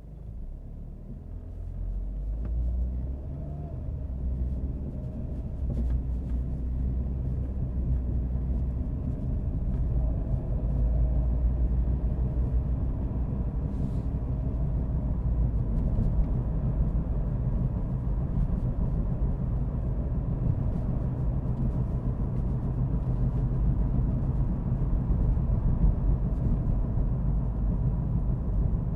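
A car driving: a low, steady rumble of engine and road noise that grows louder over the first several seconds and then holds.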